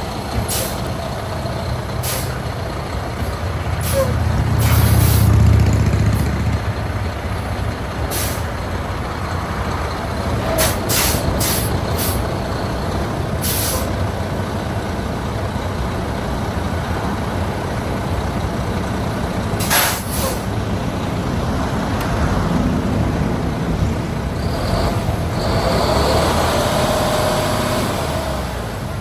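Cat CT13 diesel engine of a 2014 Cat CT660S dump truck running while the truck is worked, pulling harder about four to six seconds in and again near the end. Short, sharp air hisses from the air brake system break in about a dozen times.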